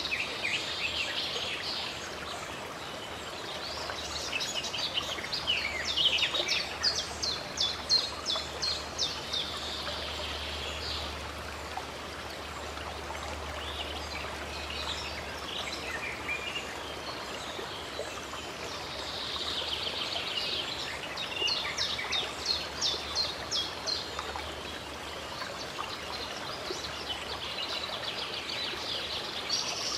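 Songbirds singing over steadily running stream water, with two bouts of rapid, repeated trilling notes, one a few seconds in and another about two-thirds of the way through.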